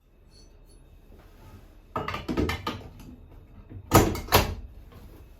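Knocks and clattering of hard objects being handled in a small room: a cluster of clatters about two seconds in, then two sharp knocks about four seconds in.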